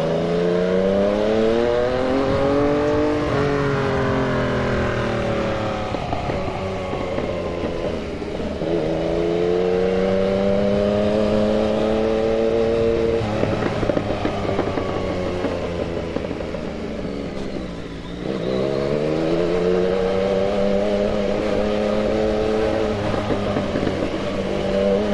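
Yamaha MT-09's three-cylinder engine pulling through the revs on a ride in traffic. Its pitch rises in three accelerations, starting near the beginning, about a third of the way in and about two-thirds in, and falls back in between as the throttle closes.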